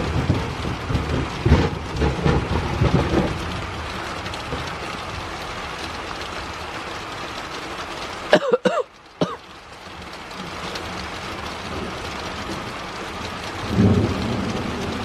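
Steady rain falling, with thunder rumbling low during the first few seconds and again near the end.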